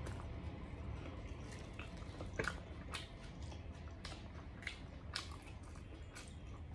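Close mouth sounds of chewing food: scattered soft wet clicks and squishes at an irregular pace, over a low steady hum.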